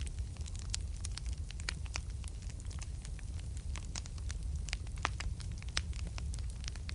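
Wood fire burning in a fireplace: frequent, irregular crackles and pops over a steady low rumble of the flames.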